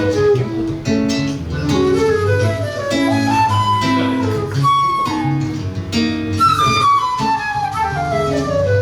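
Flute and seven-string guitar playing live together: the guitar plucks a bass line and chords under a moving melody, with a long falling run in the second half.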